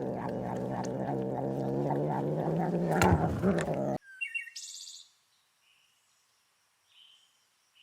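An animal's low, pulsing call, a steady pitched rumble with about four pulses a second, that stops abruptly about four seconds in. A few brief high chirps follow, then silence.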